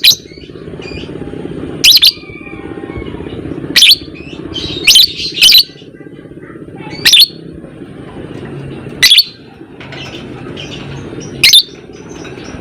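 Lovebird giving loud, short, shrill calls, about eight of them spaced a second or two apart, with fainter chattering between. A steady low hum runs underneath.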